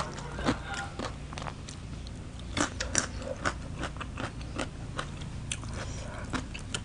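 Close-up mouth sounds of chewing a bite of crunchy shredded green mango salad: irregular wet clicks and crunches, a few a second.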